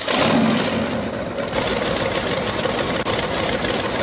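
Monster truck engine running with a rough, steady sound that starts abruptly, surging in the first second or so and then settling to an even run.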